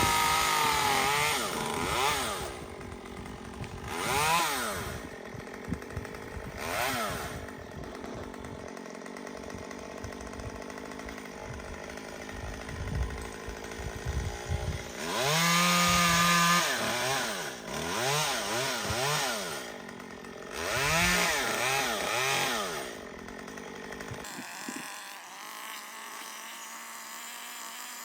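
Gas chainsaw revving up to full throttle and easing back to idle again and again, as in cutting, with the longest run at full throttle a little past the middle. A little before the end the saw sound stops abruptly and a steady, quieter hum is left.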